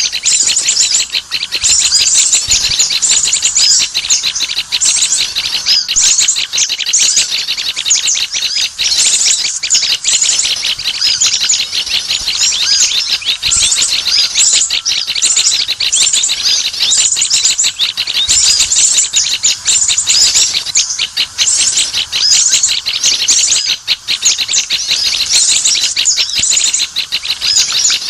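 Many small birds chirping and twittering without a break: rapid high-pitched calls in short phrases that repeat about once a second. It is a pikat bird-luring sound, played to draw small wild birds in.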